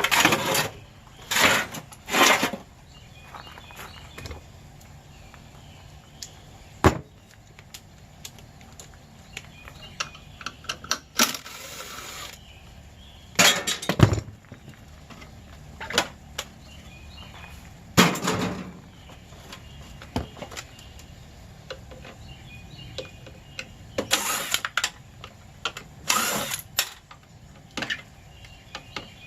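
Metal clanking and scraping as an air conditioner unit is torn apart by hand: about ten loud, sharp knocks and rasps at irregular intervals, a few seconds apart.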